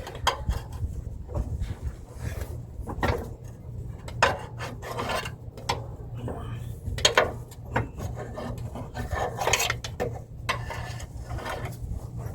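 Front differential being wrestled out past the axle: irregular metal scraping and knocks as the housing rubs against the axle and suspension, over a steady low hum.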